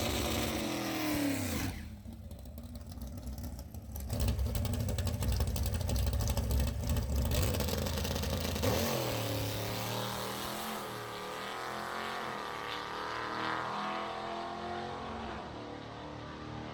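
500-cubic-inch 440-based stroker big-block V8 of a drag car revving hard during a pass. It drops away briefly about two seconds in, comes back loud about four seconds in, then its pitch rises and falls several times as it slowly fades toward the end.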